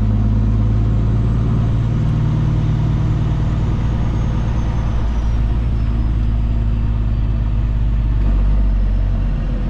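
Semi-truck diesel engine running steadily, heard from inside the cab, with a faint high whine that slowly falls in pitch midway through.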